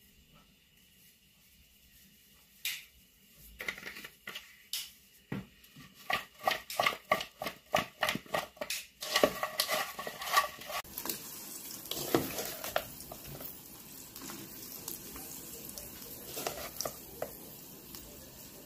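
Green plantain slices being tossed by hand in a wooden bowl, a run of quick rhythmic strokes about three a second. About halfway through they give way to hot oil sizzling steadily as the slices fry, with a few light clicks of a utensil.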